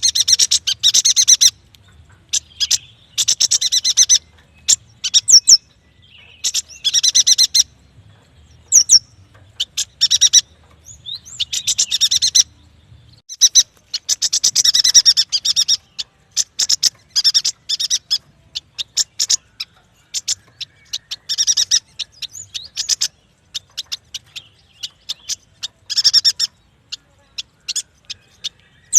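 Yuhina singing: repeated bursts of rapid, sharp high-pitched chirping notes, each cluster lasting up to a couple of seconds, with short pauses between them.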